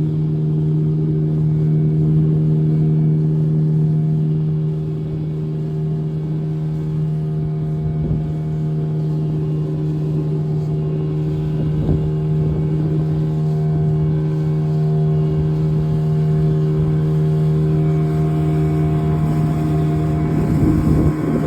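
Motorboat engine running at a steady speed, a constant hum with no change in pitch; it drops slightly in loudness about four seconds in.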